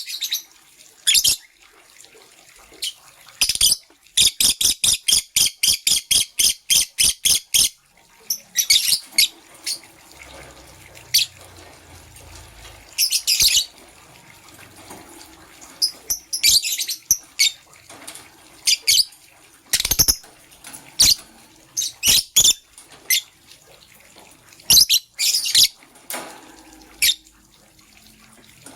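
Pet lovebirds chirping: short, shrill chirps in irregular bursts, with a fast run of about four chirps a second from around four to seven seconds in.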